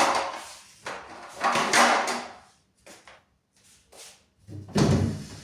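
Plastic fridge drawers being slid out and handled: a couple of sliding, scraping sounds and light clicks, then a heavier knock near the end.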